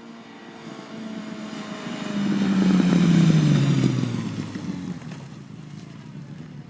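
Suzuki GSX750 Inazuma's inline-four running through a Mass Titan Tromb aftermarket exhaust with the dB killer fitted, riding past. The exhaust note swells to its loudest about three seconds in, its pitch falling as it goes by, then fades away.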